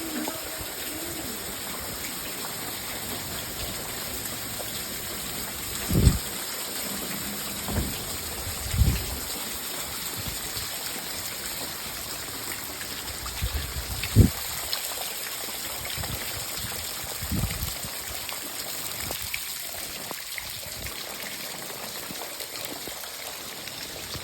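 Heavy rain falling steadily as an even hiss, with a handful of short, dull low thumps scattered through it.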